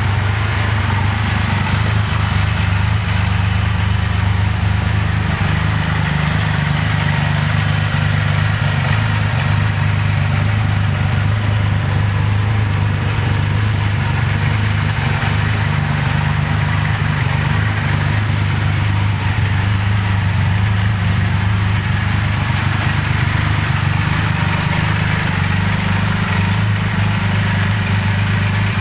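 Triumph Rocket 3R's 2,458 cc three-cylinder engine idling steadily.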